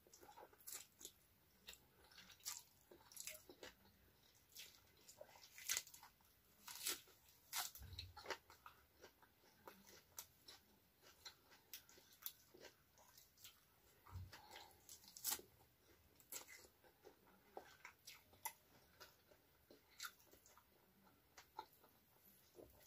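A person chewing food close to the microphone: faint, irregular crunches and small wet mouth clicks while eating rice, fried tofu and raw vegetables.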